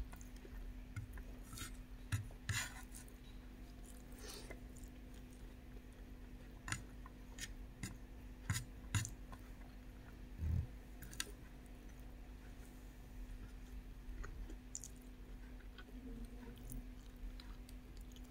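Close-up chewing and wet mouth sounds of someone eating chickpea curry with rice: scattered short smacks and clicks, thicker in the first half and sparser after, over a steady low hum.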